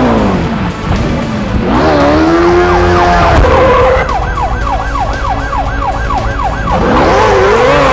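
Motorcycle engines revving, their pitch sliding down and then rising and falling. About four seconds in, a siren starts a fast yelp, rising and falling about three times a second for a few seconds.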